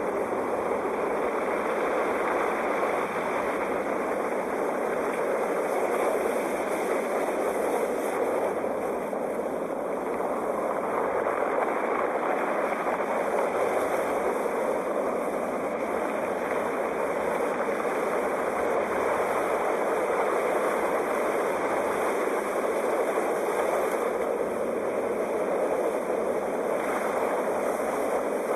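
Sea waves washing in a continuous, even rush of surf with no distinct breaks.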